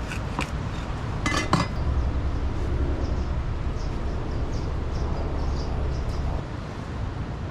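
A few sharp metallic clinks, two of them loud about a second and a half in, then faint scraping over a steady low rumble.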